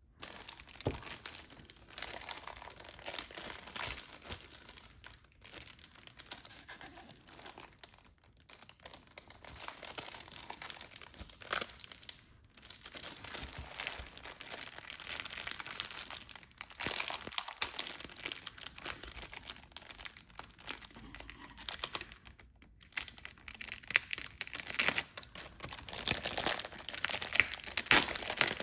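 Packaging wrapped around a stack of manga books crinkling and tearing as it is pulled off by hand, in a steady run of crackles with short pauses.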